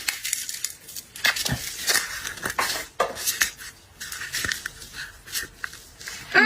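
Irregular clicks, taps and crackly rustling of seafood being handled and eaten at the table, with dishes and utensils knocking now and then.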